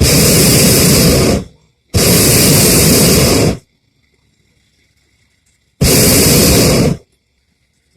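Hot air balloon's propane burner firing in three blasts of a second or more each, starting and stopping abruptly, the second blast the longest.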